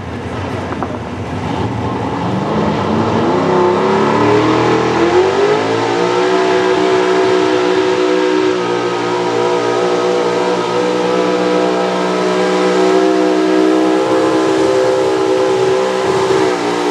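Pro Stock 4x4 pulling truck's engine winding up to high revs and holding there under load as it drags the sled down the track, then backing off near the end.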